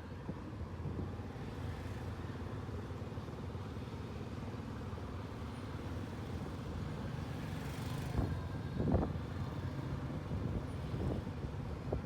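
Steady low rumble of a running motor vehicle with wind on the microphone, and a few short knocks about eight to nine seconds in.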